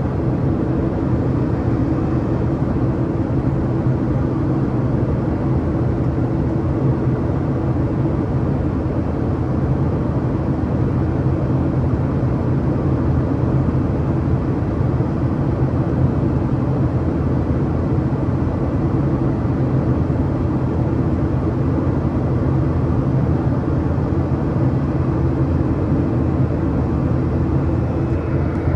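Steady drone of a Boeing 737-800's CFM56 jet engines and airflow, heard from inside the passenger cabin, with a constant low hum under the rushing noise.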